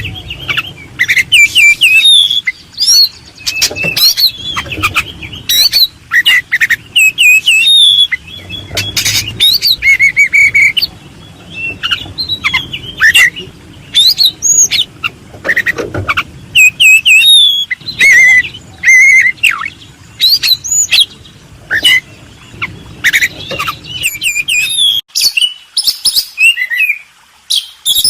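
Several small birds chirping and calling in quick, overlapping high notes, with a low hum underneath that drops away near the end.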